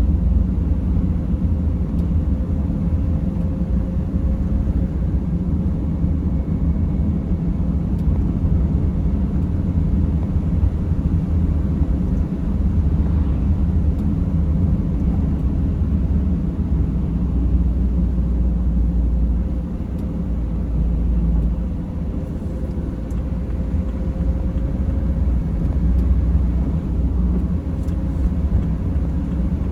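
Mercedes Sprinter van driving along: a steady low rumble of engine and tyres heard from inside the cabin.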